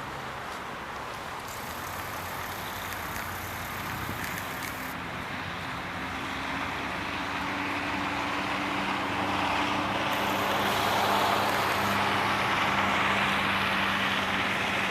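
LM-99K tram running on its rails and picking up speed: a steady rumble that grows louder, with a low motor whine coming in about a third of the way through and rising slightly in pitch.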